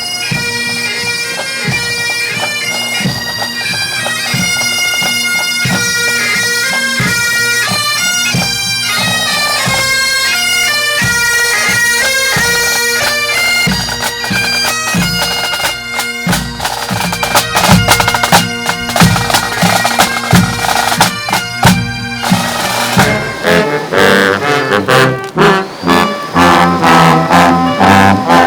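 Bagpipes playing a melody over steady drones, with a regular drumbeat. About 22 seconds in, the music changes to brass instruments.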